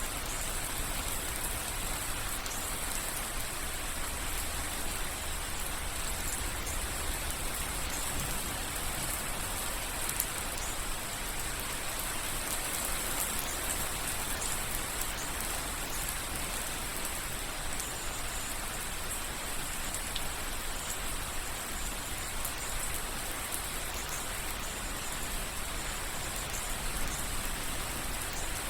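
Steady rain falling, with soft drips of rainwater running through it.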